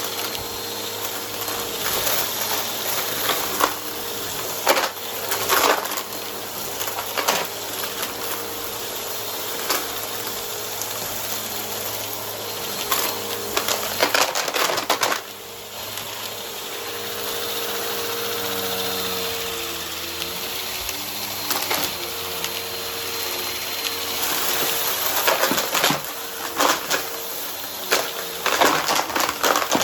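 Vacuum cleaner running with its brushroll spinning: a steady motor hum broken by frequent crackles and crunches as dry debris is sucked up. The hum dips briefly about halfway through, then carries on.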